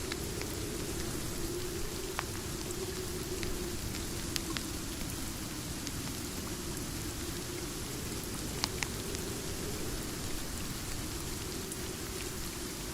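Steady rain falling, with a few sharp pops and ticks scattered through it.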